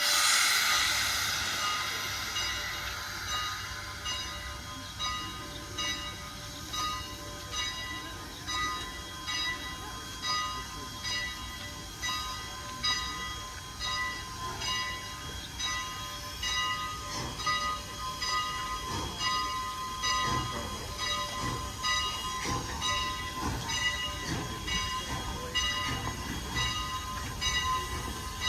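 Steam locomotive starting off: a loud burst of steam hiss that fades over a few seconds, then regular exhaust chuffs that quicken slightly, with a repeated ringing tone alongside.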